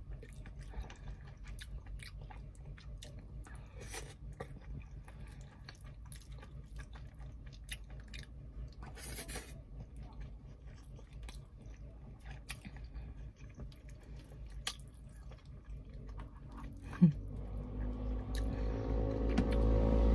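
Close-miked, wet chewing and lip-smacking of a person eating soft vinegar-stewed tilapia and rice with her fingers, many small mouth clicks over a low steady hum. Near the end, music fades in and grows louder.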